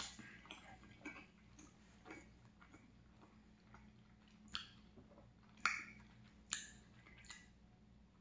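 A person chewing a soft filled mini donut with the mouth closed: faint, irregular wet mouth clicks and lip smacks, a few louder ones in the second half.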